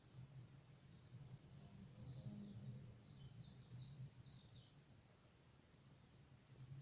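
Faint birdsong: high, quick chirping notes, a run of short falling notes about three to four and a half seconds in, over a steady low hum.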